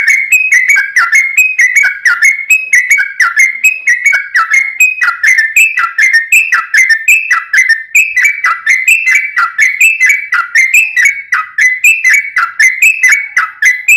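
Sooty-headed bulbul (trucuk) singing a fast, tightly packed run of short whistled notes, several a second, with no pauses.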